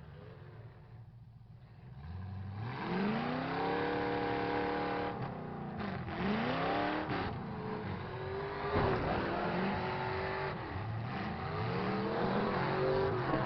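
Truck engines in a demolition derby revving hard and repeatedly, pitch climbing and falling as the drivers accelerate and back off, with a sharp bang about nine seconds in. The first two seconds are quieter before the revving picks up.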